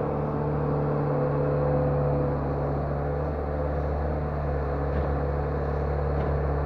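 Lonking CDM307 skid steer loader's engine running steadily at a constant speed.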